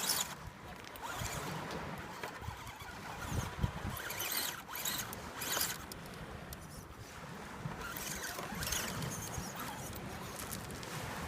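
Radio-controlled scale crawler driving in short, irregular surges: the small electric motor and gears whine as the tires scrabble over rocks.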